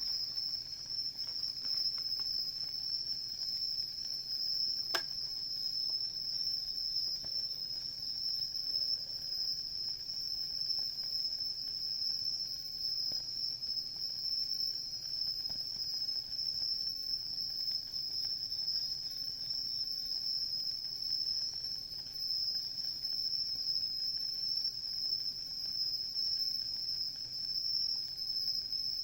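Insects singing in one continuous high trill that never breaks. A single sharp crackle comes from the campfire about five seconds in.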